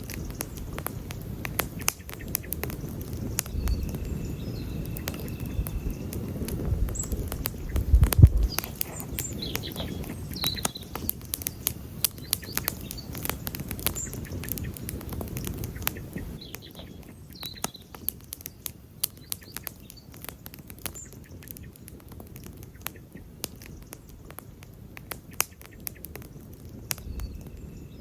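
Wood campfire crackling and popping with irregular sharp snaps, busier in the first half and sparser after about sixteen seconds. A low rumble swells between about four and eight seconds in, loudest around eight seconds.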